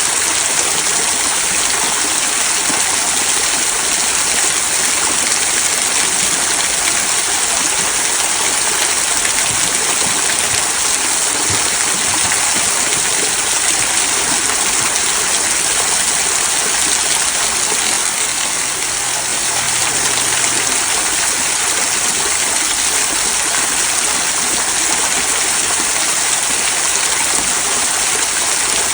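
Small rock waterfall trickling and splashing over stones into a stream, a steady rushing hiss of falling water.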